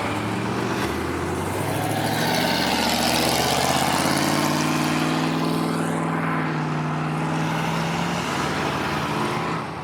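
Chevrolet SSR's V8 exhaust as it pulls past under throttle, the engine note swelling a few seconds in and then easing off.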